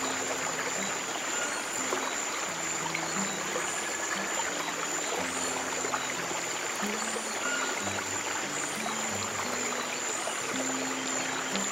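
A stream of running water flows steadily under slow, soft low piano notes. A thin steady high tone and faint high chirps repeating about once a second sit above them.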